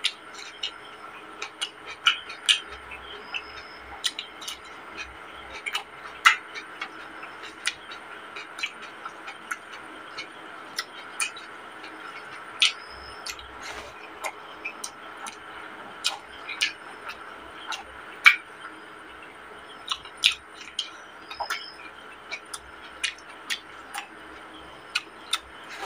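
Close-miked eating sounds of a person chewing rice, chicken curry and tomato: irregular wet smacks and mouth clicks, a few a second, over a steady faint hum.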